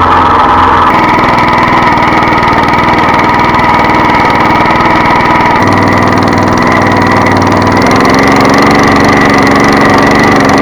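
Walk-behind tractor engine running steadily and loudly, its note shifting slightly about a second in and twice more later.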